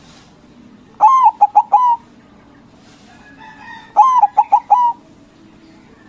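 White zebra dove (perkutut) cooing: two song phrases about three seconds apart, each a longer opening note followed by three short quick notes.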